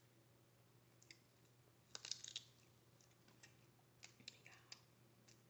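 Crab shell being cracked and picked apart by hand, giving faint sharp clicks and cracks: a quick cluster about two seconds in and a few more about four seconds in.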